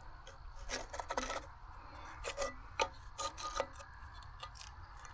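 Short bouts of scraping and rubbing as steel pieces are handled and slid into position, a handful of brief scrapes with a sharper clink or two among them.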